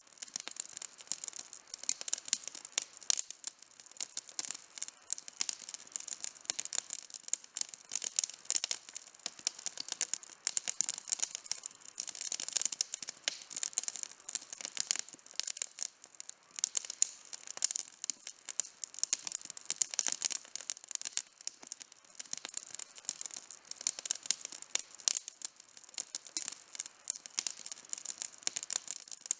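Outdoor campfire burning, its wood crackling and popping in a dense, irregular stream of sharp snaps.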